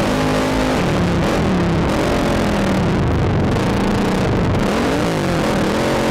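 ATV engine revving up and down repeatedly as the throttle is worked, with wind rushing over the helmet-mounted microphone.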